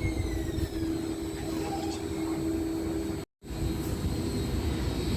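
Muni Metro Siemens LRV4 light-rail car's motor whine gliding down in pitch as the train slows, over a steady low hum and rumble. The sound drops out completely for a moment about three seconds in.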